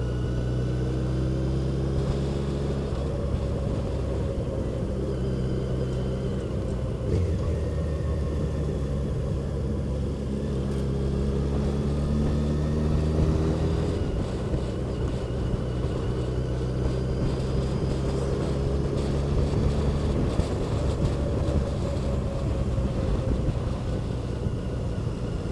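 A vehicle engine running at road speed under steady road and wind noise. Its pitch shifts with changes of speed a few times, notably about a quarter and about halfway through.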